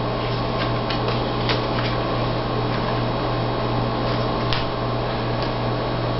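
Steady low electrical hum and hiss, with a few faint, sharp clicks and taps of Pokemon cards being handled on a table.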